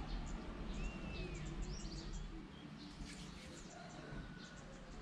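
Small birds chirping: scattered short high chirps and a thin whistled note about a second in that rises slightly and then falls, over a low background rumble that eases off in the first two seconds.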